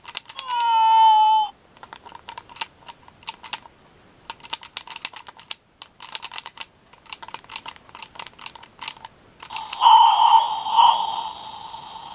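A McDonald's Robo-Chi robot cat toy giving a short electronic meow that falls in pitch, followed by several seconds of light plastic clicking as the toy is worked. Near the end its speaker plays a loud buzzy electronic sound that pulses about twice a second.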